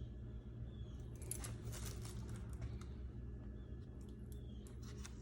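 Faint, irregular small clicks and light scraping in short clusters, over a low steady hum.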